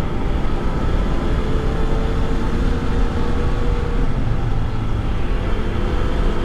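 Motorcycle running steadily at road speed: an even engine hum under steady wind rush on the microphone.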